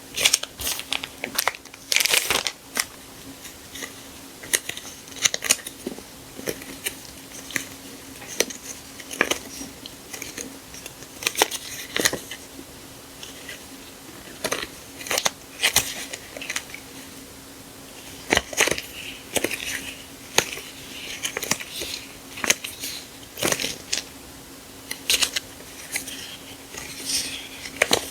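Hands handling sticker sheets and their paper and plastic packaging: irregular crinkling and rustling with sharp taps and clicks, over a faint steady hum.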